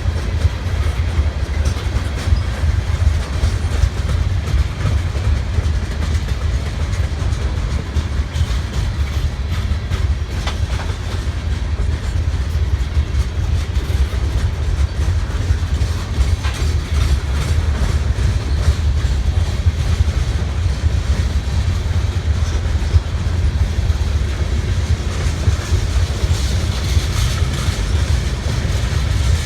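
Freight train rolling past: a steady low rumble of railcars on the track, with occasional clicks from the wheels.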